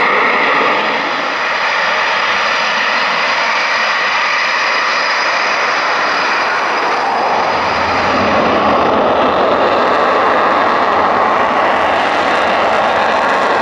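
Eurofighter Typhoon jet engines running, a steady high whine over a continuous rush of jet noise. The sound deepens and grows a little louder about halfway through.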